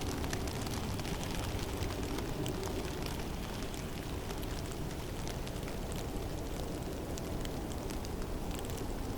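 Heavy snowstorm in a forest: a steady low rush of wind, with scattered faint ticks throughout.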